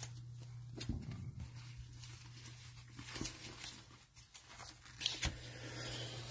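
Faint rustles and light clicks of trading cards being handled and flipped, over a steady low hum.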